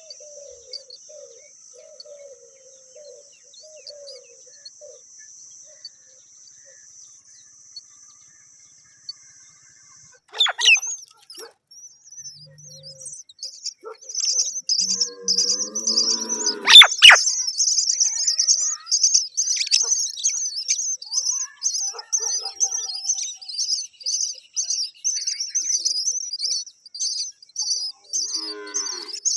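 Myna chicks give rapid, shrill, evenly repeated chirps, about two to three a second, from about halfway through: the begging calls of nestlings. A sharp knock two-thirds of the way through is the loudest sound. Before the chirping there is only a faint, steady high hiss.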